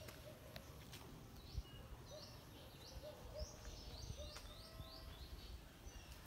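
Faint bird chirping over low outdoor background noise, with a quick run of short high chirps in the middle and a couple of soft knocks.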